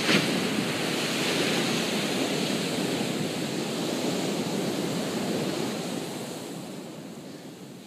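Ocean surf on a beach: a wave washing up the sand in a steady rush that dies away over the last couple of seconds, with wind on the microphone. A couple of sharp knocks at the very start.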